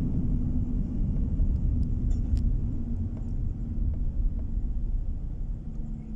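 Road noise heard from inside a moving car: a steady low rumble of tyres and engine with a faint even hum, and a few light ticks.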